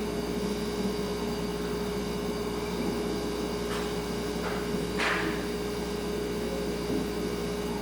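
Refrigerator humming steadily, a constant single tone over a low even hiss. A few faint, brief rustling or ticking noises come a little under four seconds in and about five seconds in; the one at five seconds is the loudest.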